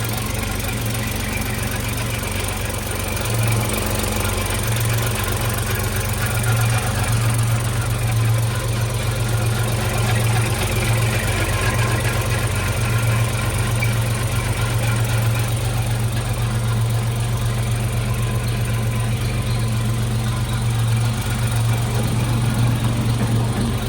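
1955 Chevrolet 3100 pickup's rebuilt straight-six engine idling steadily, an even low hum.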